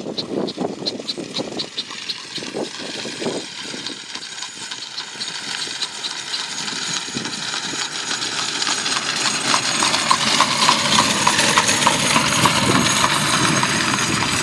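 Horse hooves clip-clopping on the road at a steady beat as a horse-drawn buggy comes closer, its road noise growing louder toward the end.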